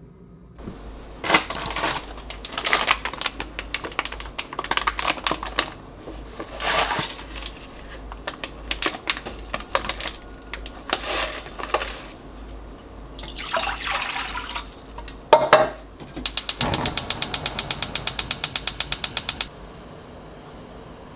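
Handling noises: repeated bursts of rustling and clattering, then a rapid, even clicking of about ten clicks a second for about three seconds that stops suddenly.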